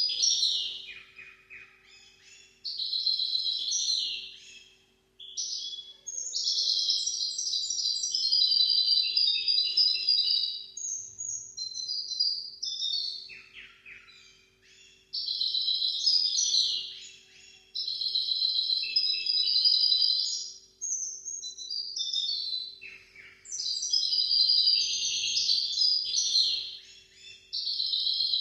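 Hybrid finch (mule) singing long, rapid, warbled song phrases, high-pitched and twittering, separated by short pauses. A few phrases include a quick falling whistle. A faint steady hum lies underneath.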